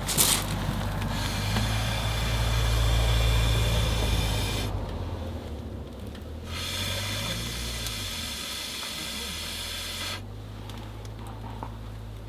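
Two long, steady hissing rushes, each about three and a half seconds, with a short pause between, as a fire of damp firewood is being coaxed alight in a wood stove. A sharp click comes just at the start.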